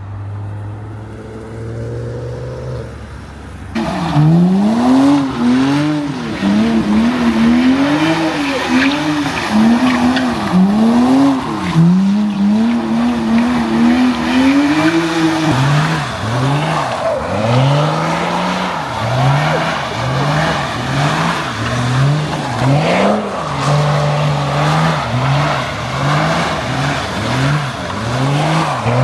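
A car engine at a steady idle, then from about four seconds in revved hard up and down over and over, roughly once a second, with tyres squealing, as in a burnout or skid.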